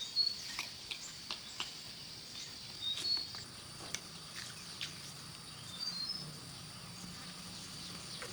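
A steady high insect drone, with a few short bird chirps and scattered sharp clicks or knocks.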